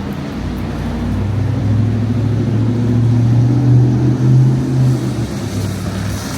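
A motor vehicle driving past: a low, steady engine hum grows louder, is loudest about four seconds in, then fades away after about five seconds.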